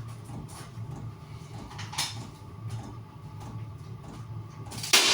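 Mineral-coated shed roofing felt being handled: scattered scraping and rustling, with one loud sharp rasp near the end, over a steady low hum.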